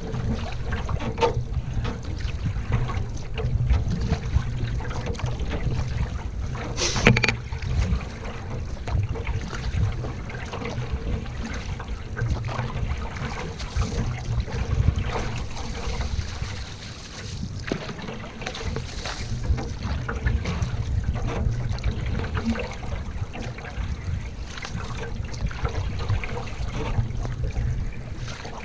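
Water lapping and trickling around a canoe being paddled, under a steady low rumble of wind on the microphone; a single sharp knock about seven seconds in.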